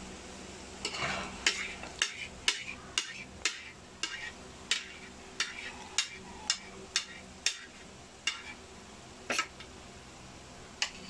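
Crisp crunching of fried chicken being chewed, about two sharp crunches a second, spacing out to a few single crunches near the end.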